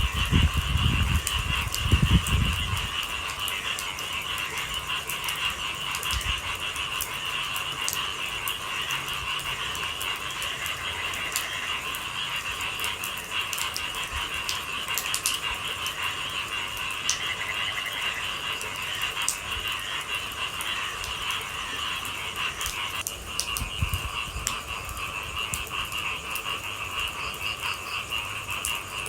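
Night chorus of frogs calling in a steady, high-pitched din, with scattered raindrop ticks. Low thumps stand out in the first two or three seconds.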